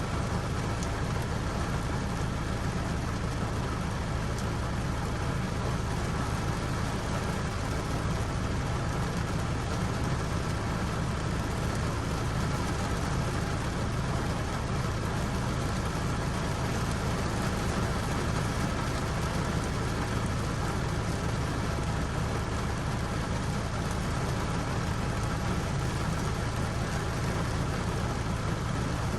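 Steady rain: an even, unbroken hiss with a strong low rumble underneath that does not change.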